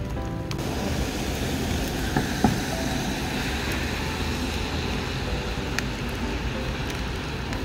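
Steady rain falling, with a low rumble of distant traffic underneath. One sharp knock comes about two and a half seconds in.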